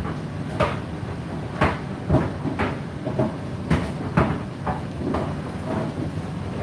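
Drum of a front-loading laundry machine turning a load, with irregular thuds and knocks about once or twice a second as the laundry drops inside the drum over a steady running rumble.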